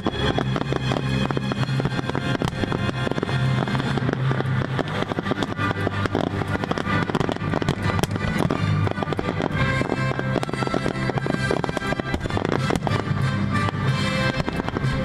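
Fireworks bursting and crackling in rapid succession over steady music.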